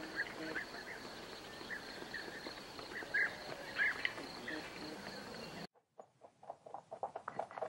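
Steady high insect buzzing, like crickets, with a few short chirping calls, the loudest about three and four seconds in. Near the end, after a sudden drop to near silence, comes a quick run of soft clicks and rustles.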